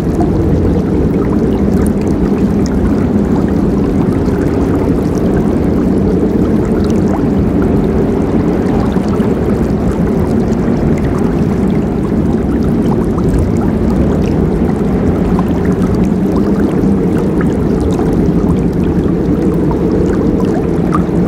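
River water flowing and rushing steadily, a low, deep rush with faint scattered splashes and gurgles.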